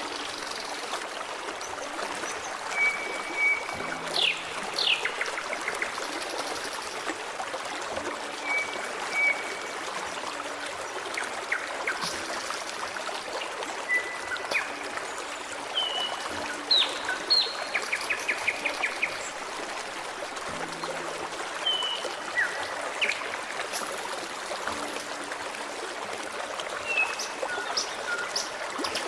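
Forest stream trickling and babbling steadily, with scattered short bird chirps and whistles over it.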